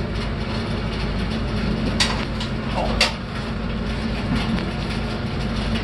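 A large running unit giving a steady low machinery hum, with two sharp clicks about two and three seconds in.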